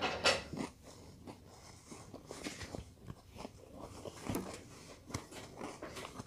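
A child chewing a mouthful of Peach Cheerios cereal with milk: soft, irregular crunches and small mouth clicks, with a louder noise right at the start.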